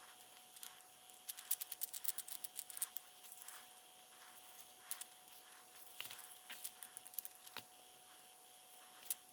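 Faint, irregular clicking and ticking of small metal parts and a screwdriver being handled while a small set screw is driven into a faucet handle, with a rapid run of clicks early on and scattered single ticks after, over a faint steady hum.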